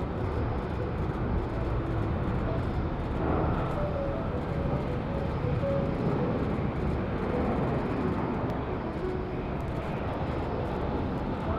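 Jet airliner's engines, a steady rumbling noise that holds level throughout.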